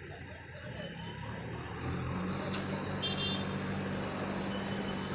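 Road traffic: a motor vehicle's engine hums steadily from about two seconds in, over a constant hiss. A short high-pitched beep sounds about three seconds in.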